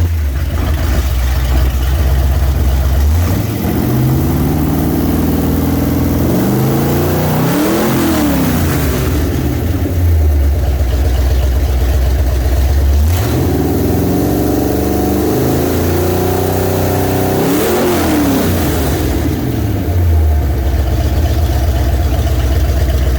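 Freshly built Ford 351 Windsor V8 with a roller cam, carbureted, running at idle and revved up slowly twice, each time climbing smoothly and dropping back to idle. It runs cleanly, the sign of a fresh build that is running well.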